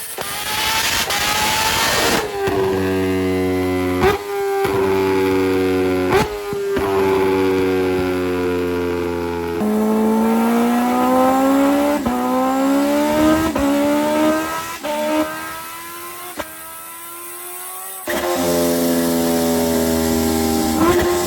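Kawasaki Ninja H2R's supercharged inline-four revving hard on a dynamometer, its pitch holding, dropping and climbing through repeated pulls and breaking off abruptly several times.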